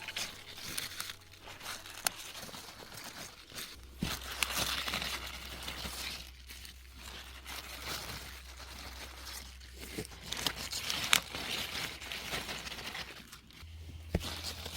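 Crinkling, rustling handling noise with a few sharp clicks or snaps scattered through it, over a faint steady low hum.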